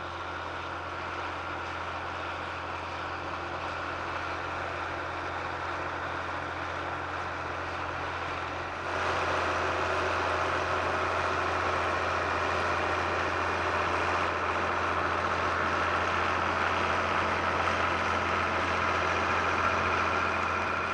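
Tractor engine running steadily while working a field. The sound gets suddenly louder about nine seconds in.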